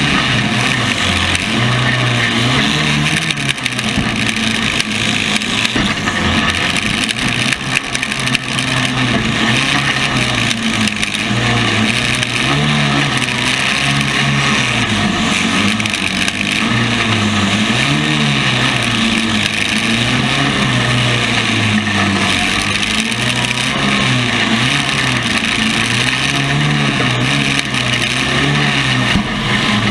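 Compact car engines revving continuously, the pitch rising and falling every second or two.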